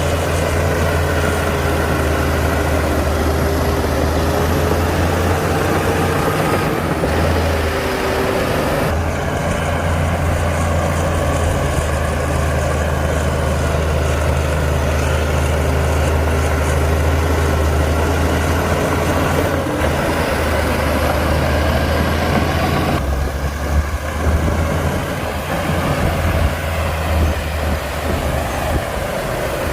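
Heavy diesel engine of a Komatsu D60-P bulldozer running steadily with a deep drone, its sound shifting abruptly a few times, with some irregular clanks in the last few seconds.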